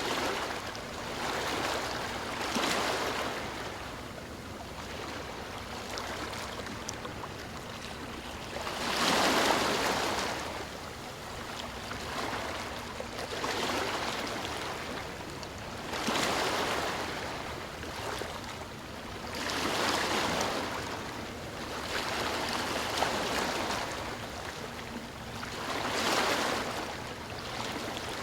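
Sea waves breaking and washing in, a hiss that swells and fades every few seconds, the biggest surge about nine seconds in.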